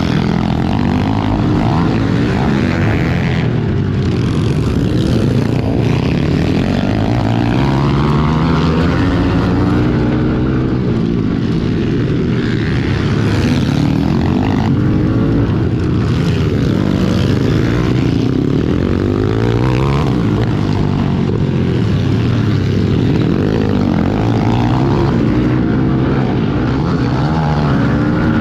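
Several pit bike engines racing, revving up and falling back repeatedly as the riders accelerate and shift, their pitches overlapping.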